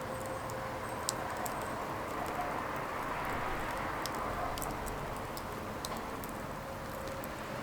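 Firewood burning: a steady rushing of flames with scattered sharp crackles and pops.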